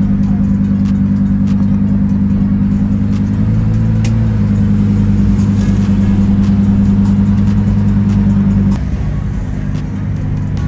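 A car at a car show putting out a loud, steady low drone at one pitch that shifts slightly about four seconds in and cuts off abruptly near the end.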